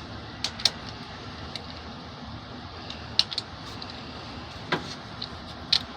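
Metal tools and parts clinking: about five sharp clicks, a few seconds apart, over a steady low hum.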